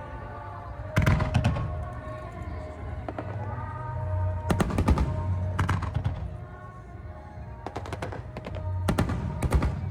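Fireworks bursting overhead in rapid clusters of sharp cracks, about a second in, around the middle and near the end, over music with held tones.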